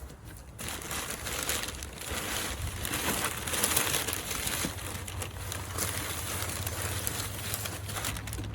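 A package being opened and unwrapped: continuous crinkling and rustling of packing material, starting about half a second in, over a steady low hum.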